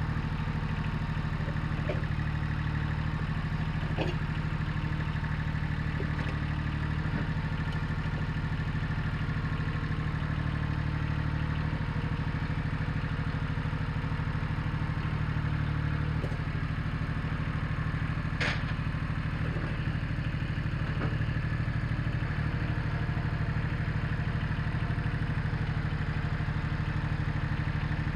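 Satoh Mitsubishi compact tractor engine running steadily, with a few sharp clanks, one about four seconds in and one about eighteen seconds in.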